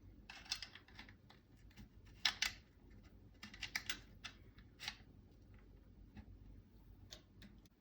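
Irregular light clicks and small knocks of a forend bridge part being slid and pressed into a SCAR 15P's receiver, with clusters of clicks every second or so.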